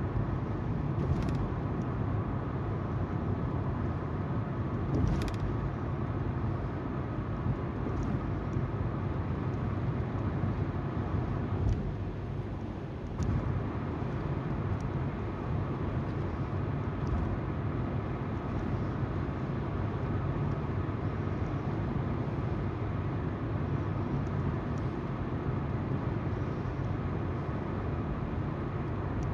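Car driving at speed, heard from inside the cabin: steady tyre noise on the road and the hum of the engine, with a few faint clicks. The noise dips briefly about twelve seconds in.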